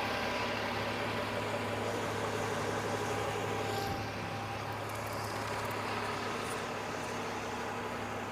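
Rubbish truck's diesel engine idling steadily, a constant low hum that drops slightly in level about four seconds in.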